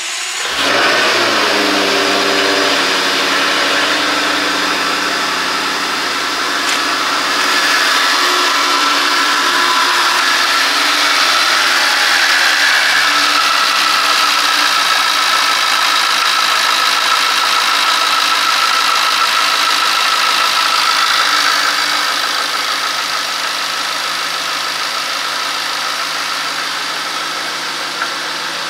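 Jaguar F-Type's 5.0-litre supercharged V8 starting and idling steadily, the first start after the engine was rebuilt for scored cylinders.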